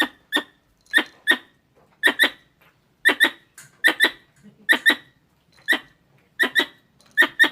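Squirrel calls: sharp, short chirps, mostly in quick pairs, repeating about once a second in a steady series.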